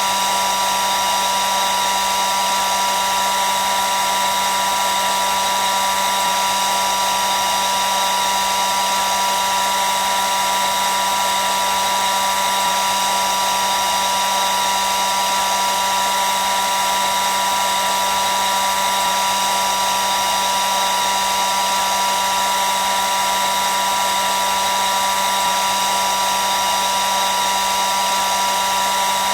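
Electric hair dryer running continuously: a steady rushing hiss of air with a constant motor whine, strongest around a single mid-high tone.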